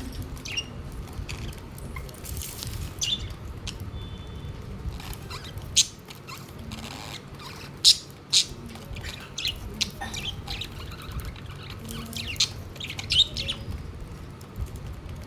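Budgerigars chirping and squawking in short, scattered calls, with a few sharp clicks and a steady low hum underneath.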